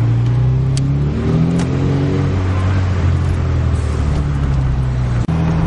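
Volkswagen Golf's engine accelerating, its pitch rising over the first couple of seconds and then running steadily. The sound drops out for an instant near the end.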